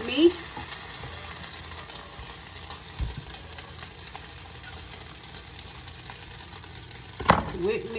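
Meat sizzling as it browns in a pot, being stirred and broken up with a utensil. There is a dull knock about three seconds in and a sharper knock near the end.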